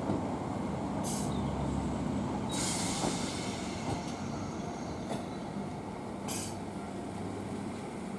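Class 321 electric multiple unit at the platform with a steady low rumble, broken by short high hissing bursts about a second in, for about a second from roughly two and a half seconds in, and again past six seconds.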